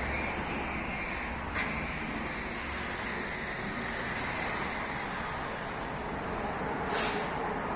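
Industrial net washing machine running, a steady rushing noise with a few faint knocks and one louder knock near the end.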